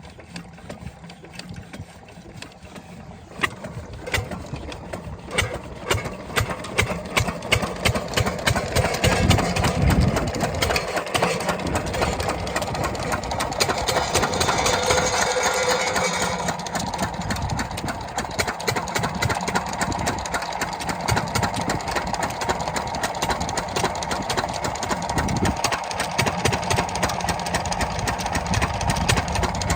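A 12 hp diesel water-pump engine thudding in a rapid, even beat. It gathers speed and loudness over the first ten seconds or so, then runs steadily.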